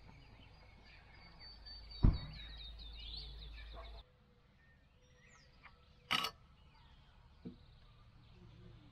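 A bird trills in the background, with a sharp knock about two seconds in and another sharp click about six seconds in, from things being handled on the table.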